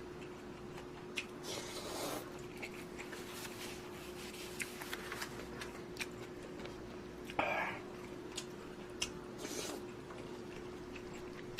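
Someone eating instant budae-jjigae ramyeon close to the microphone: soft chewing with small mouth clicks and a few brief louder noisy sounds, over a faint steady hum.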